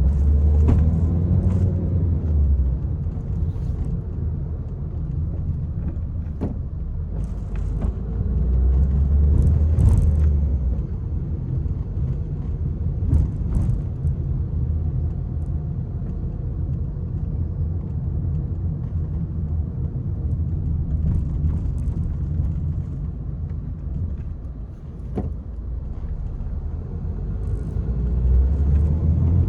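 Peugeot 301 driving: a steady low engine and road rumble, with the engine pulling harder and rising in pitch about a second in, again in the middle and near the end. A few short knocks sound over it.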